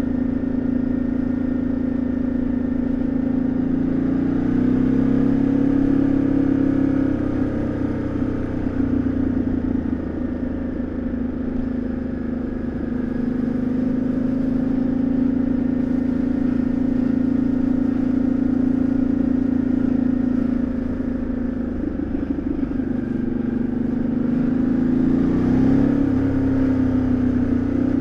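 Ducati Multistrada 1200S's L-twin engine and exhaust running under way. The engine note holds mostly steady, with the revs rising and easing off a few times as the throttle opens and closes: a climb about five seconds in, a dip near ten seconds and again near twenty-two, and another climb near the end.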